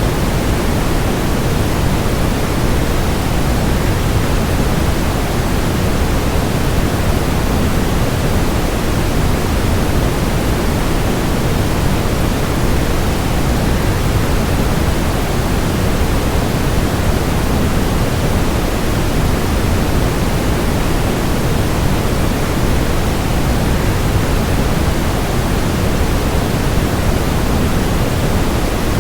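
Steady rush of a waterfall mixed with white noise: an even, unbroken hiss weighted toward the low end.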